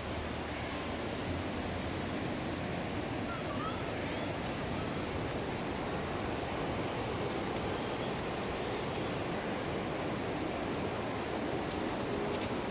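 Surf washing onto a sandy beach: a steady, even rush of waves with no clear breaks.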